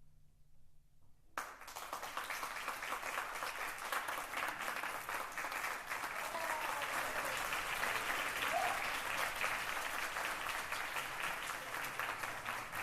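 The brass band's last low note fades out, then audience applause breaks out suddenly about a second and a half in and carries on steadily.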